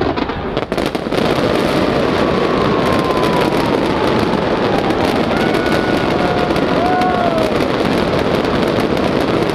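Fireworks display bursting in a dense, continuous crackle that grows louder about a second in, with a few sliding whistle-like tones above it.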